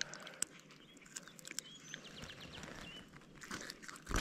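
Faint bird chirps, including a quick trill of about six rapid notes in the middle, over a quiet background, with a few light clicks from unhooking a caught bass and a sharp thump at the very end.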